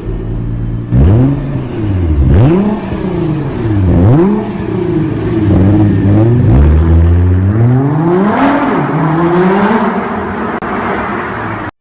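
Mercedes-Benz CLS63 AMG V8 with a mid-pipe (centre-section) exhaust modification, idling and then revved in four or five quick blips, each climbing and falling in pitch, followed by one longer rev that rises and drops back. The loud exhaust note is the aim of the modification.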